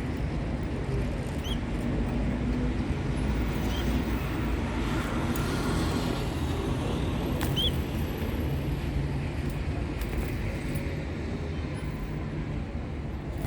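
Steady low rumble of road traffic, with a few faint, short, high chirps from a bird about one and a half, four and seven and a half seconds in.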